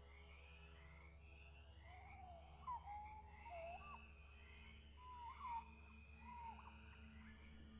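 Faint birdsong: many birds chirping in quick, high notes, with one lower, clearer whistled phrase of short gliding notes in the middle, over a steady low hum.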